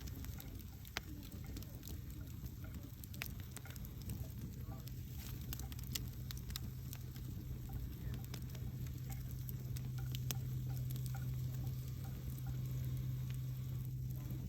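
Wood campfire crackling, with scattered sharp pops over a steady low hum that grows a little louder in the second half.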